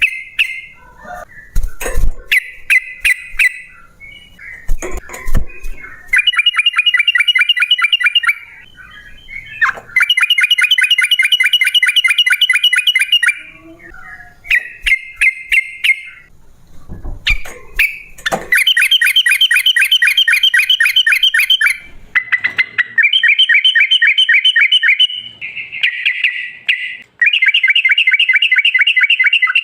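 Yellow-vented bulbul (trucukan) singing a bold, excited song. Short chirps and sharp clicks come first. About six seconds in it begins long, fast rolling trills, each a few seconds long, repeated with short gaps.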